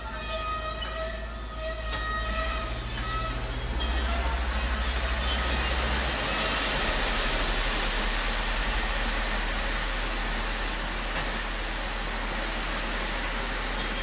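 A train running out of sight: a steady low rumble with a high whine that fades away over the first several seconds, while an even rushing noise swells about two seconds in and carries on.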